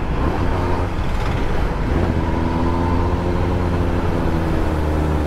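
Kawasaki ZX-10R's inline-four engine running through a LeoVince slip-on exhaust while riding, with a deep, bassy note. It settles into a steady pitch about two seconds in.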